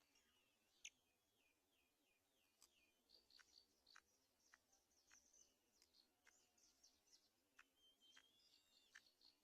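Faint high bird chirps and twittering, short notes repeated throughout, with scattered sharp clicks; the loudest click comes about a second in.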